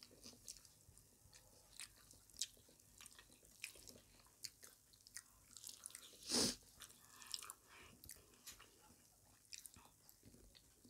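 Quiet chewing and wet mouth sounds of people eating rice and curry by hand, with many small clicks and smacks and one louder mouth sound about six seconds in, as a handful of rice goes into the mouth.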